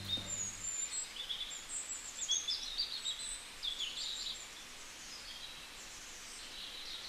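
Small birds chirping and twittering in short high calls over a faint hiss; the calls thin out after about four seconds. A low music tone fades out in the first second.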